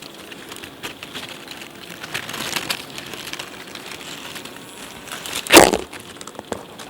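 Crackling, crunching rustle of dry material being handled or trodden, louder for a moment in the middle, with one loud thump about five and a half seconds in.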